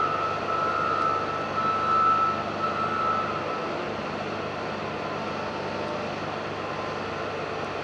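Repaired vehicle running steadily, sounding smooth, with no knock or grind. A faint high whine fades out over the first few seconds.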